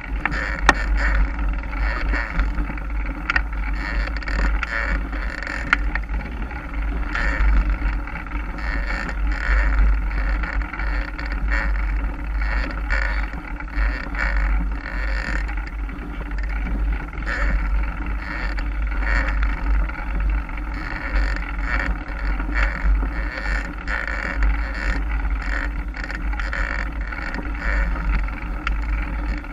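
Mountain bike ridden along a dirt trail, heard from a camera on the bike or rider: a steady rumble of wind on the microphone with tyre noise and occasional sharp rattles and clicks from the bike.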